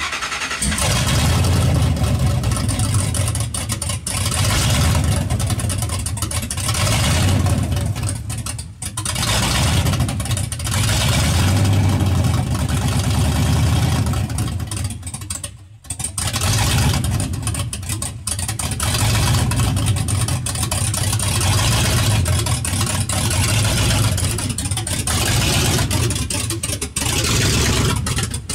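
1999 Ford SVT Lightning's supercharged V8, fitted with aftermarket cams, idling with no muffler on a straight-piped exhaust. The sound is loud and uneven, its level rising and falling every few seconds, with two brief drops partway through.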